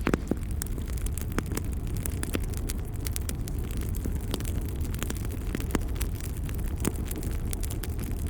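Wood fire crackling in a fireplace: irregular sharp pops and snaps, several a second, over a steady low rumble from the flames.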